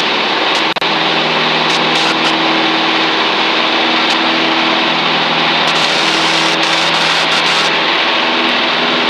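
Cessna 162 Skycatcher's Continental O-200 engine and propeller running steadily at climb power, heard inside the small cabin as a loud, even drone with a wide hiss. The sound cuts out for an instant just under a second in.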